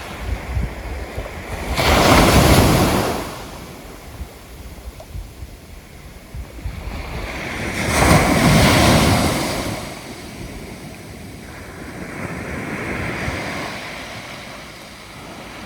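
Sea waves breaking and washing up a beach: two loud swells of surf and a weaker third near the end, with a light wind rumble on the microphone.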